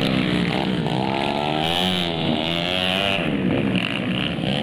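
Dirt bike engines revving, their pitch rising and falling again and again as the bikes run around a grasstrack motocross course.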